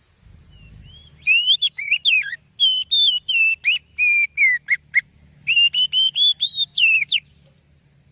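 Oriental magpie-robin singing: a fast run of loud, clear whistled notes, many sliding up or down in pitch, in two phrases with a short break about five seconds in.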